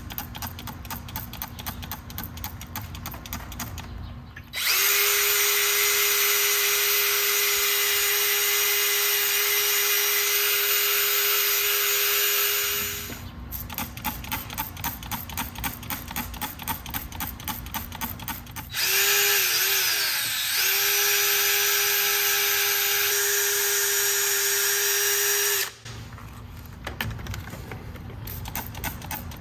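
Electric drill spinning a brass wire brush against the carbon buildup on a motorcycle piston head, in two long steady runs of about eight and seven seconds, its pitch dipping briefly early in the second run. Between the runs there is a quieter rapid, regular ticking.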